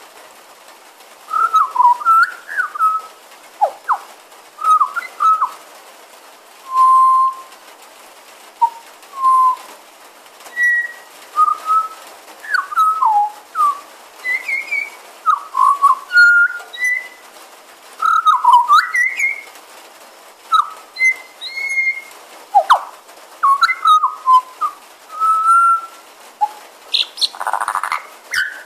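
Pied butcherbird singing at close range: a long run of clear, fluted whistles in short gliding phrases, one every second or so, with a brief rougher note near the end.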